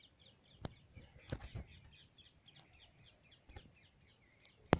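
Birds calling, with many short high chirps in quick succession. Several sharp clicks come through, the loudest just before the end.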